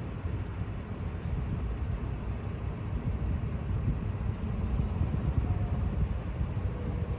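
Steady low rumble of city traffic, with one faint brief high sound about a second in.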